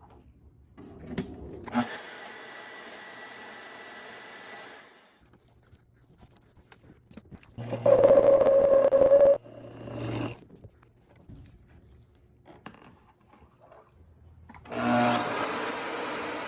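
Power-tool work on steel in three separate stretches that start and stop abruptly, the loudest about halfway through carrying a steady tone.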